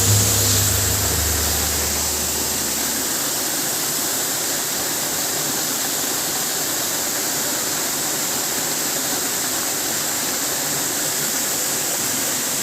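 Steady rushing of a waterfall. A low hum under it fades out over the first three seconds.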